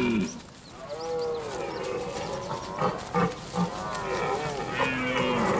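Red deer stags roaring in the autumn rut: several drawn-out calls that rise and fall in pitch, with a longer, lower call near the end.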